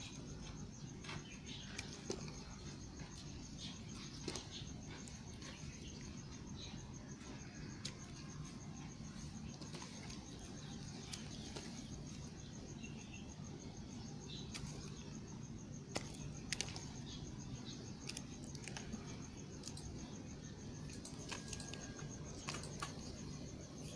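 Bar soap being cut with a knife: small crisp clicks and snaps at irregular moments over a steady low hum, with a faint high pulsing whine throughout.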